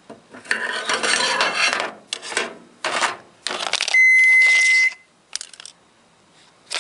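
Clattering and scraping as a hot iPhone 5 is handled in a microwave with metal scissors, in several bursts of knocking and rubbing, the longest near the start. About four seconds in, the microwave gives one high electronic beep lasting about a second.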